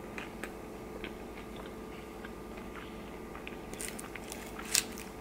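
A person chewing food, with soft wet mouth clicks, and a few sharper clicks about four to five seconds in, over a faint steady hum.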